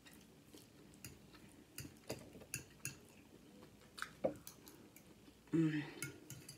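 Close-miked chewing of a mouthful of rice, with scattered soft clicks and wet mouth smacks.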